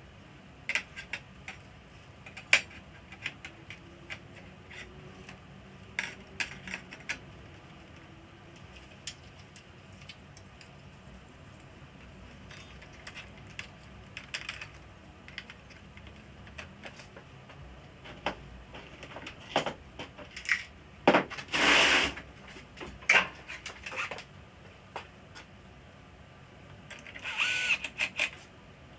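Tools and small parts handled while a flat-screen TV is being worked on: scattered clicks and knocks throughout, with a longer noisy rattle about three quarters of the way through and another shorter one near the end.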